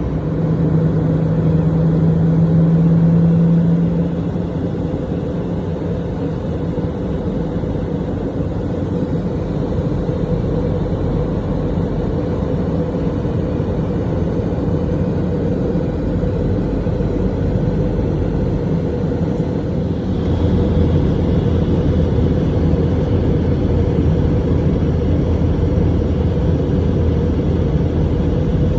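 Airliner cabin noise: the engines and airflow make a steady droning rumble. A low hum stands out for the first few seconds, and a deeper drone grows stronger about twenty seconds in.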